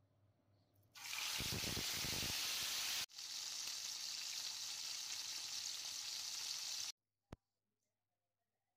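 Chicken breast frying in hot oil, a steady sizzle that starts about a second in, breaks off for an instant midway, and cuts off suddenly near the end. A single click follows.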